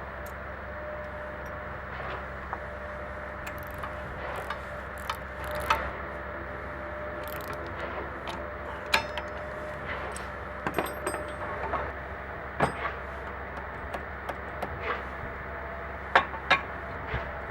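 Scattered metallic clinks and knocks from steel parts being handled, with a few louder knocks near the end, over a steady background hum.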